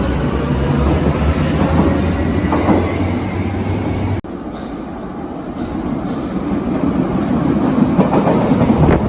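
Berlin U-Bahn train running on the track, with a steady low hum and a faint tone. It cuts off abruptly about four seconds in, then rail noise builds again, with a few sharp clicks from the wheels near the end.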